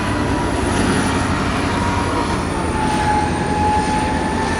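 Train running close by: a steady loud rumble with a thin high whine and a ringing tone, both dropping slightly in pitch about halfway through.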